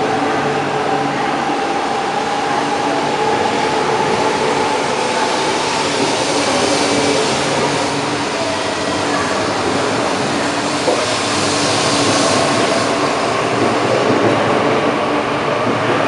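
Shinkansen train accelerating out along the platform: a steady rush of running noise with an electric motor whine that slowly rises in pitch, swelling in hiss around the middle.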